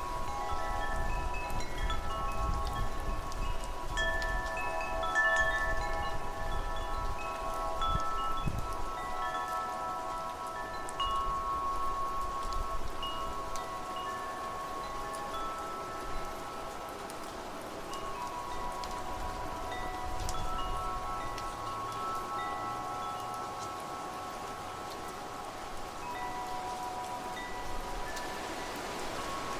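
Wind chimes ringing continuously, their tones struck at random and ringing on, over a steady hiss of rain and wind. The chimes are busiest in the first half.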